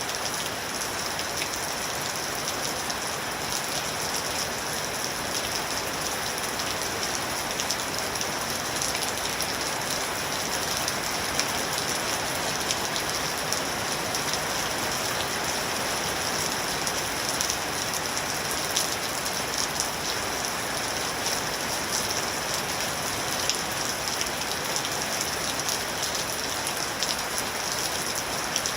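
Steady rain falling and pattering on a surface, a dense even hiss with scattered small drop ticks.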